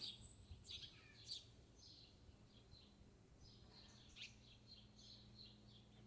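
Faint small-bird chirps: a few short high notes in the first second and a half, then a quick run of chirps from about the middle on.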